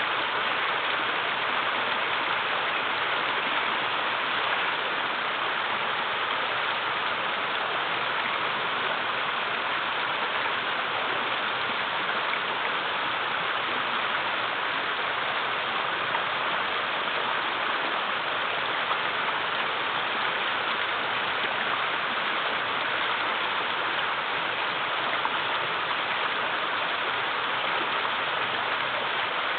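A river running low over small waterfalls, a steady, unbroken rush of water.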